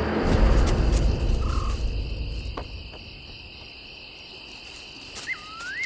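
A steady chorus of crickets trilling. A deep low rumble fades out over the first two seconds or so, and near the end a short call swoops up and down in pitch.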